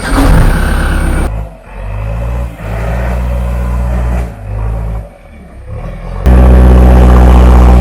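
Backhoe loader's diesel engine running and revving, heard in several abruptly cut segments. The last segment, from about six seconds in, is very loud and distorted.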